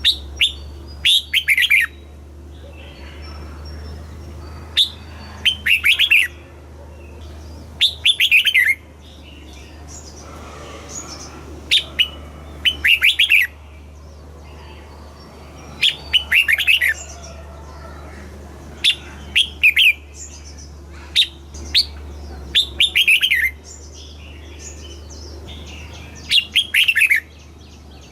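Red-whiskered bulbul singing: a short, loud phrase of quick falling notes, repeated every three to four seconds. A steady low hum runs beneath, with fainter chirps between the phrases.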